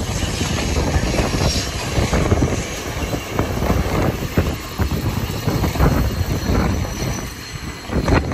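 A train running past close by, with wind buffeting the microphone into a rough, uneven rumble.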